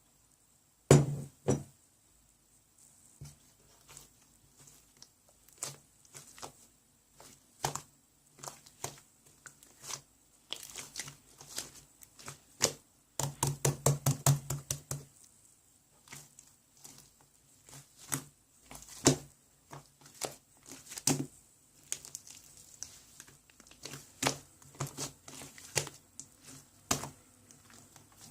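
Irregular handling noise: sharp clicks, taps and crinkling at close range, with a quick flurry of taps about halfway through and a loud knock about a second in.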